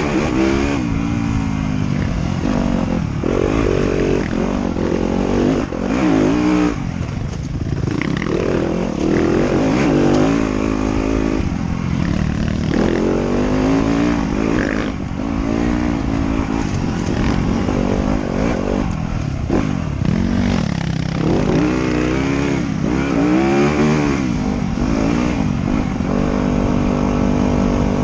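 Motorcycle engine on a trail ride, repeatedly revving up and dropping back as the rider accelerates and eases off, then holding a steadier pitch near the end.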